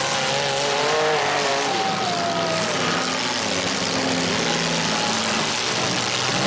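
Engines of several compact demolition derby cars running and revving together, with pitches falling in the first few seconds as engines come off the throttle.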